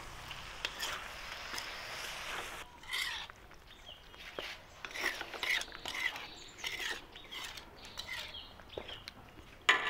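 Chopped pork saksang sizzling in the pan as a faint steady hiss that cuts off after about two and a half seconds. Then a few scattered faint, short high sounds follow.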